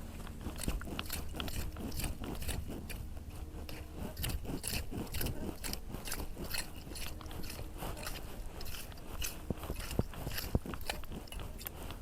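A clam-digging tool scraping through wet beach sand and shells in repeated short, crunching strokes, a few each second, while digging for surf clams.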